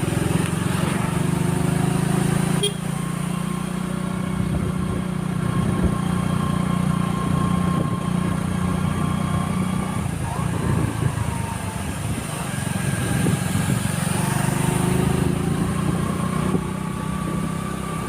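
Motorcycle engine running steadily while riding, with a short dip in level about three seconds in and a shift in the engine note around ten seconds in.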